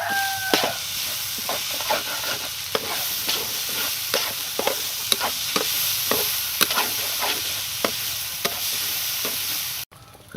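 Raw rice being stir-fried in a hot pan: a steady sizzle with a spatula scraping and knocking against the pan in quick, uneven strokes. The sound cuts off suddenly near the end.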